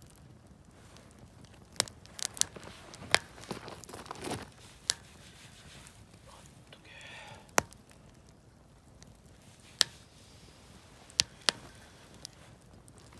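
Wood campfire crackling, with sharp, irregular pops from the burning wood, about ten of them, several loud, scattered over a faint steady background.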